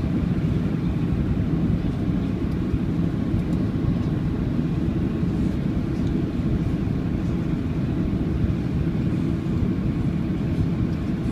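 Steady low rumble of an Airbus A330-200's jet engines and rushing air, heard inside the passenger cabin on the landing approach.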